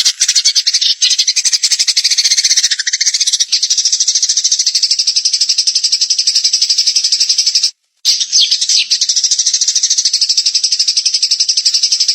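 A songbird's fast, high, buzzy trill repeated in an even run of rapid pulses, broken by a short pause about eight seconds in before it starts again. It is recorded birdsong used as masteran, the training calls played for caged songbirds to copy.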